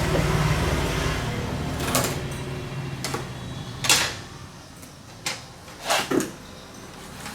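A low rumble that fades over the first couple of seconds, then a series of sharp knocks and clacks, about six of them spaced irregularly, with the loudest near the middle and again a couple of seconds later.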